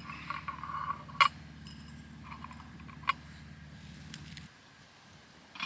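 Light metal clinks and taps as the stamped pot-stand fins of a Trangia spirit burner are slotted together and set in place, the sharpest clink about a second in. A low, steady engine drone runs underneath and cuts off about four and a half seconds in.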